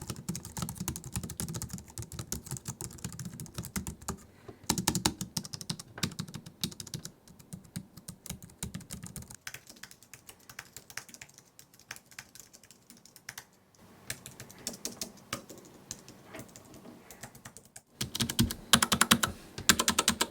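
Typing on a Logitech MX Mechanical keyboard, a fast, uneven run of mechanical key clicks. It thins out and quietens in the middle and comes back louder and denser near the end.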